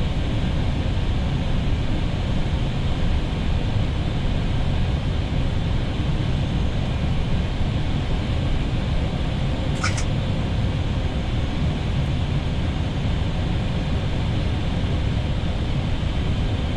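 Steady rushing noise on an Airbus A320neo's flight deck during final approach: airflow and engine and air-conditioning hum. A brief high chirp about ten seconds in.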